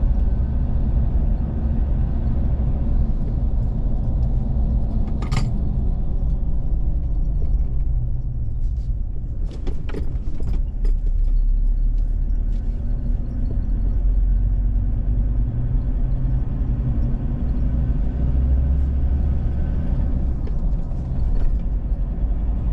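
Road noise inside a moving vehicle: a steady low rumble of engine and tyres, with scattered rattles and knocks, a cluster of them about ten seconds in.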